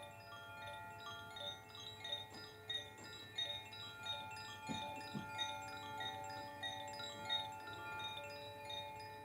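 Koshi chimes gently swirled by hand, the metal rods giving a continuous wash of overlapping ringing tones, each new strike sounding over the ring of the last.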